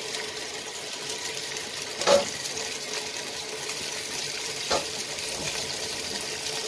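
Chicken pieces sizzling in hot ghee in a clay pot, a steady frying hiss with a faint hum beneath. Two sharp knocks cut through it, the louder about two seconds in and another near five seconds.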